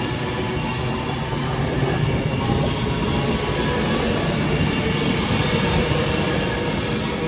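Passenger train running close by on the line: a loud, steady train noise with several humming tones.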